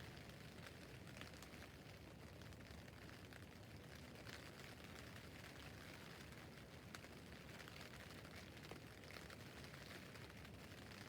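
Rain falling on a tent roof: a faint, steady hiss with many separate drop taps.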